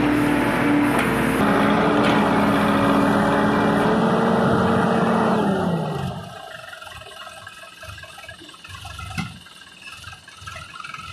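Backhoe loader's diesel engine running at high revs. About five and a half seconds in, the revs fall away and the sound drops sharply, leaving only a faint low rumble and a single short knock.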